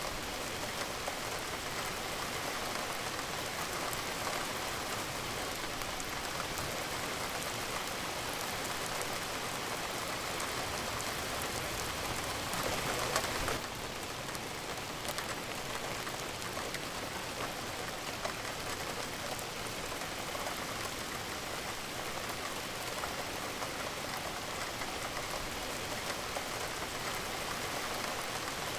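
Steady rain falling, with many separate drop hits pattering on a surface. About halfway through it swells louder for a second or so, then drops back abruptly.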